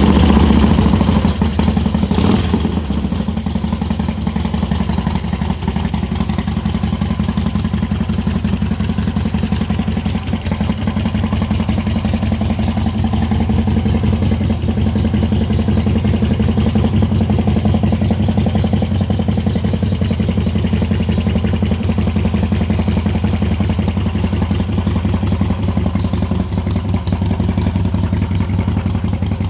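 A 2009 Harley-Davidson Dyna Low Rider's Twin Cam 96 V-twin running steadily at idle just after starting. There is a brief blip about two seconds in.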